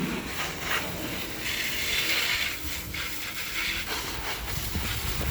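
Wash mitt rubbing and scrubbing, scratchy and uneven, with a brief hiss about one and a half seconds in.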